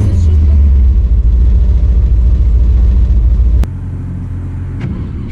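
Cammed Chevy 350 small-block V8 in a C10 pickup running with a loud, choppy low rumble. About three and a half seconds in there is a click, and it drops to a quieter, steadier rumble.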